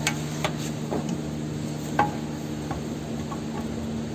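A few scattered light metallic clicks and knocks, from steel suspension and axle parts and tools being handled, over a steady low hum.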